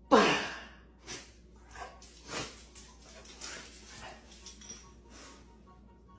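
Dog whimpering and yipping: a series of short cries, the first and loudest sliding down in pitch.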